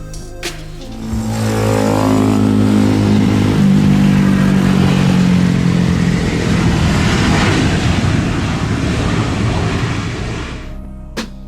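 Motor vehicle engine revving up, its pitch rising about a second in, then a loud steady rush that fades out near the end.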